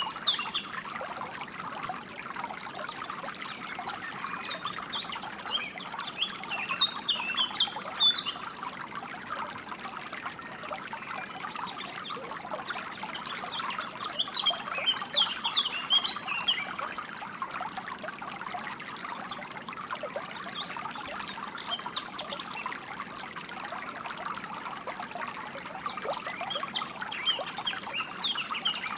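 A small stream of water trickling and splashing steadily, with songbirds chirping over it in short runs of quick high notes, four or so times.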